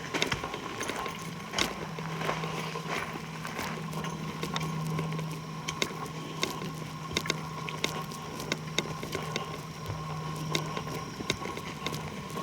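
Footsteps crunching and snapping twigs and dry leaves on a forest floor, as a series of sharp cracks. A steady low hum comes in about a second and a half in and fades near the end.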